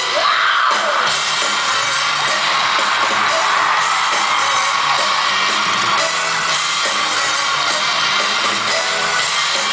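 Live pop band playing loudly at a concert, with audience members yelling and whooping over the music; a shout rises just after the start.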